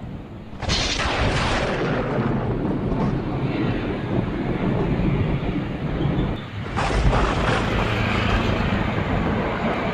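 Two close thunderclaps: a sharp crack about a second in and another about seven seconds in, each rolling into a long rumble.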